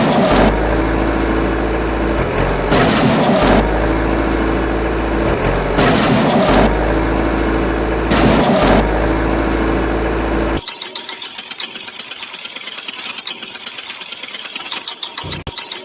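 Engine sound, with a loud surging pattern that repeats about every three seconds over a steady low drone. About ten seconds in it switches abruptly to a quieter, rapid, even chugging like an idling engine.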